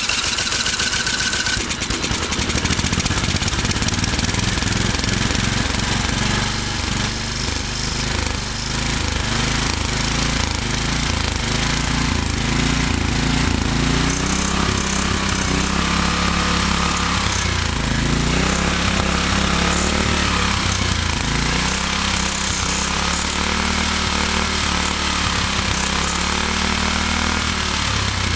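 Snapper LT11 lawn tractor's Briggs & Stratton engine running roughly just after a cold start, its speed rising and falling every few seconds. It is the first run of an engine that sat unused for years, still untuned, with its throttle linkage not yet working.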